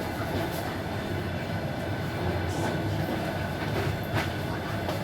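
Suburban train running, heard from inside the carriage: a steady rumble, with a few sharp clicks from the wheels on the track.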